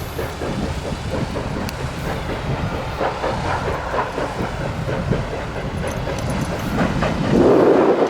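Steam-hauled passenger train rolling past, its wheels clacking over rail joints, with a louder swell near the end.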